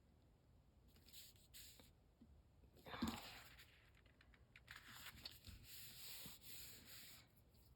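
Sheet of paper being handled and torn, a dry rasping stretch lasting a couple of seconds, with a short thump about three seconds in.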